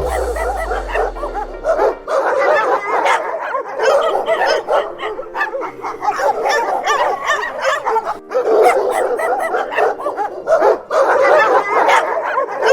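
Several dogs barking and yipping continuously and on top of one another over background music.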